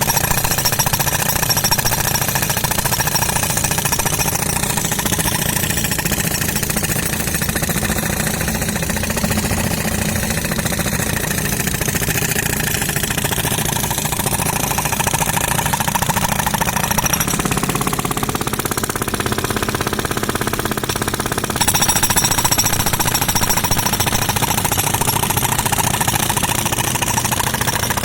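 Pneumatic concrete breaker hammering rapidly and steadily, with an engine running underneath. The sound changes for about four seconds two-thirds of the way through, then the full hammering resumes.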